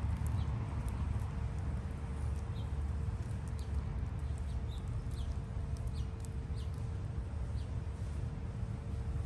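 Small birds chirping: many short, high chips scattered through, several a second at times. Under them runs a steady low rumble and a faint steady hum.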